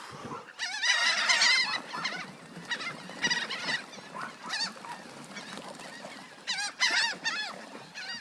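A group of birds calling over and over: many short pitched calls, overlapping densely about a second in and again near the end, with scattered single calls between.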